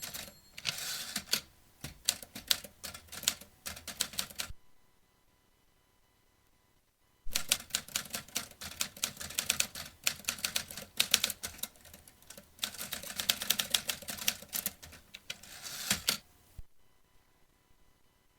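Vintage manual typewriter being typed on: rapid keystrokes in quick clicking runs for about four seconds, a pause of nearly three seconds, then a longer unbroken run of fast keystrokes that stops about two seconds before the end.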